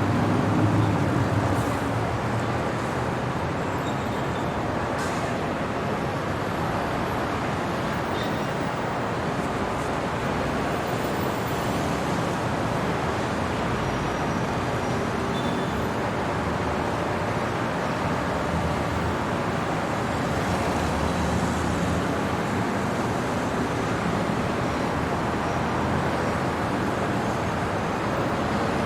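City traffic: a steady wash of road noise, with a vehicle passing closer near the start and another swell a little after the middle.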